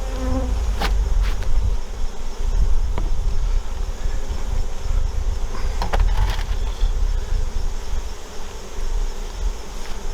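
Honey bees buzzing around an open hive, over a steady low rumble, with a few sharp clicks and knocks of handling about a second in, around three seconds and around six seconds.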